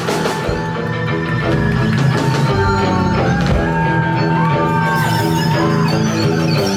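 Live rock music: sustained instrument lines over a steady bass and drums, in an instrumental stretch between sung lines.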